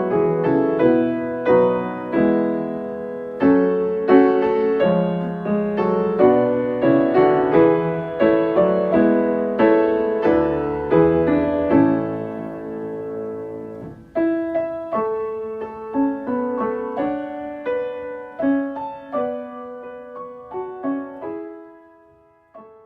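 Solo piano playing in chords, softer from about twelve seconds in and fading out near the end.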